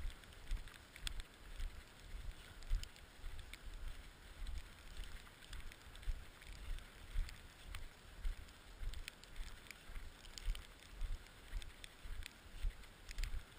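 Wind buffeting the microphone in uneven low gusts, with scattered light clicks.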